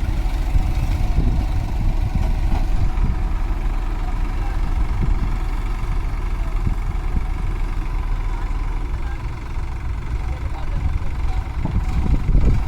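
Heavy diesel engine running steadily, rising a little near the end.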